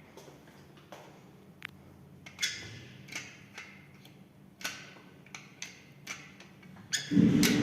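Old SamLZ passenger lift's mechanism: a string of irregular sharp clicks, then about seven seconds in a sudden loud start of a steady low hum.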